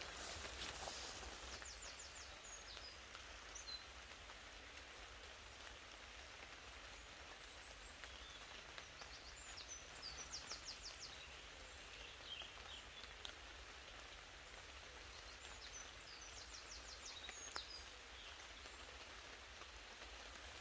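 Faint light rain falling in woodland, with short runs of quick high bird chirps a few times.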